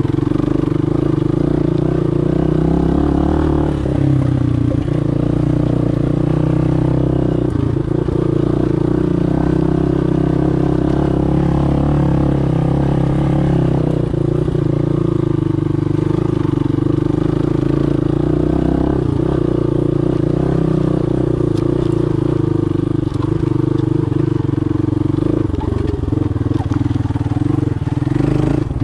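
Motoland Legend 300 motorcycle engine running at a fairly steady speed while riding a dirt track.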